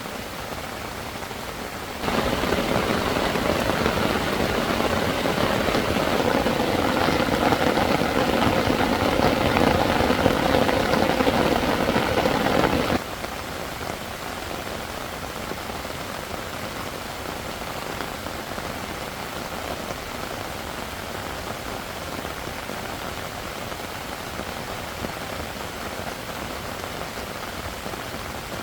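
Heavy rain falling, a steady hiss. A louder, denser stretch of rain begins suddenly about two seconds in and cuts off suddenly about eleven seconds later.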